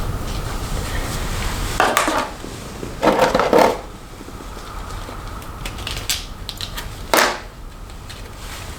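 Plastic snap-on hair rollers being handled and put in: light clicks and clatters with three short rustling bursts, about two, three and seven seconds in.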